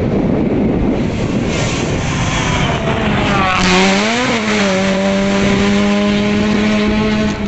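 Rally car engine running hard at high revs, its note jumping up and dropping back about four seconds in, then held steady. A rushing noise comes before the engine note.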